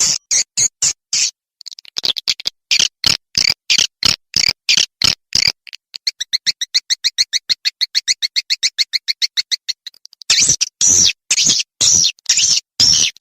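Swiftlet calls from a swiftlet-house lure recording: rapid repeated high chirps, then a fast, even trill of about a dozen clicks a second from about six to ten seconds in, then louder chirps again.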